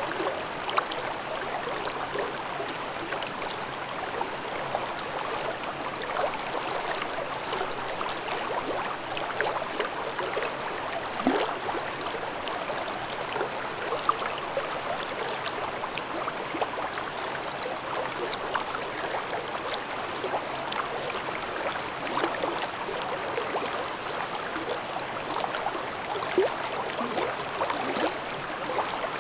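Mountain stream babbling steadily over rocks, a constant wash of water with many small splashes and gurgles.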